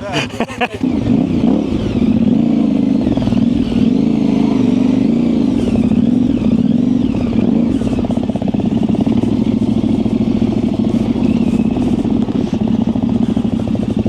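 Yamaha Ténéré 700's parallel-twin engine, fitted with an aftermarket high-mount exhaust, running at low to moderate revs as the bike rides along, its pitch rising and falling slightly. The engine comes in loud about a second in.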